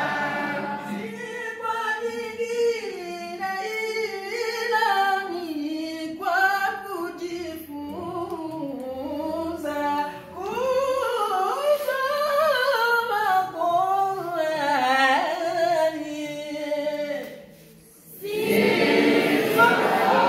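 A single unaccompanied voice chanting long melodic lines of Quranic recitation in a maqam, the pitch winding up and down through ornamented runs. After a short pause near the end, a group of voices takes up the chant together.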